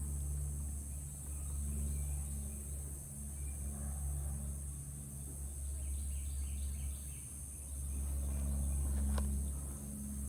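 Outdoor ambience with a steady high-pitched insect drone over a low rumble. A few faint bird chirps come past the middle, and a single sharp click sounds near the end.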